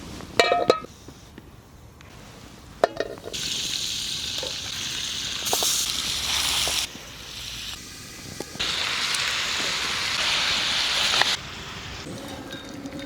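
Food frying in a hot pan: two loud stretches of sizzling that start and stop abruptly. A few metal clinks of a utensil against the pan come in the first seconds.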